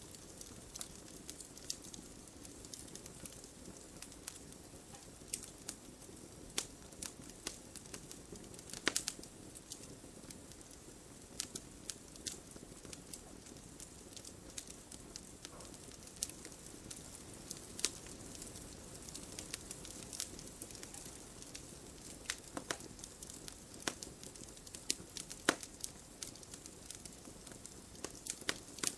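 Campfire burning with a steady low hiss and irregular crackles and pops of burning wood, a few sharper pops standing out.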